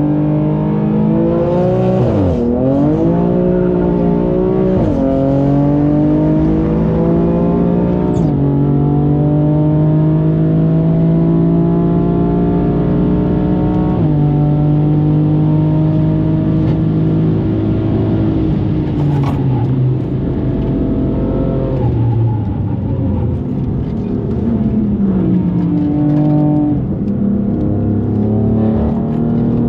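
Tuned BMW M4 twin-turbo inline-six, fitted with LM700 track turbos and catalytic converters, pulling hard on track. Its pitch climbs steadily through each gear and drops sharply at each upshift, around 7,000 rpm. There are several shifts in turn, with a few dips and blips between them.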